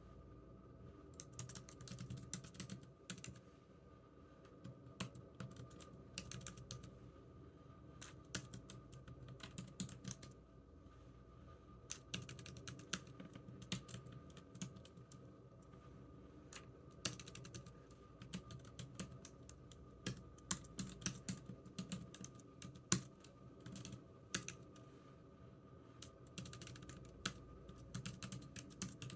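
Typing on a computer keyboard: irregular runs of key clicks with short pauses between bursts, over a faint steady hum.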